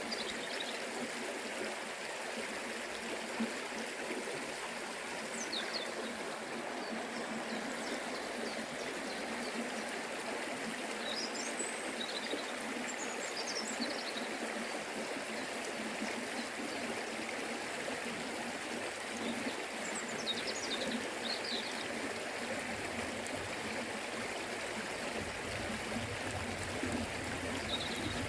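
Forest river rushing steadily over stones, with a few brief high bird chirps now and then.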